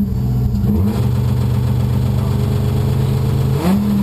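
Rally car's engine heard from inside the cabin, running steadily while the car stands still, with the revs rising briefly about a second in and blipped up sharply near the end.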